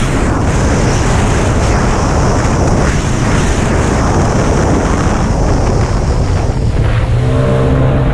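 Racing jet ski running flat out, its engine noise mixed with heavy wind buffeting on the microphone.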